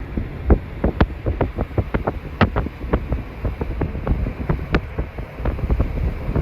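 Wood fire crackling and popping, with irregular sharp snaps over a low rumble.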